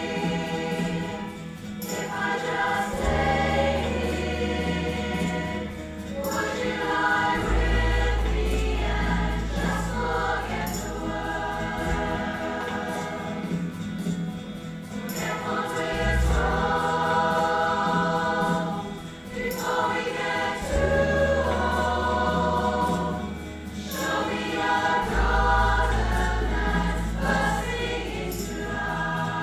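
A choir singing a song with accompaniment. Long low bass notes change every few seconds beneath the voices.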